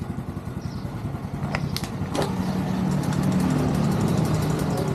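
Motorcycle engine running at idle, growing louder about two seconds in, with a few sharp clicks just before.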